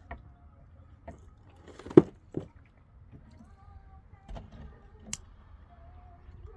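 A handful of scattered knocks and clatters, the loudest about two seconds in, over a low steady background and faint distant voices.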